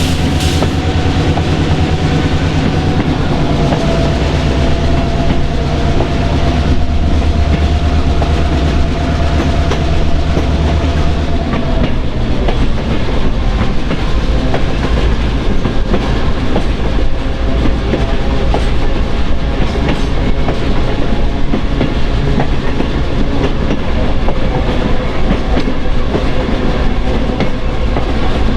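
Diesel-hauled passenger train running, its wheels clicking over rail joints. A steady engine drone with held tones drops away about twelve seconds in, leaving the rumble and rattle of rolling cars.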